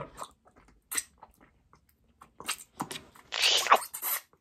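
Close mouth sounds of eating: chewing and biting with scattered small clicks, and a short breathy rush of noise about three and a half seconds in.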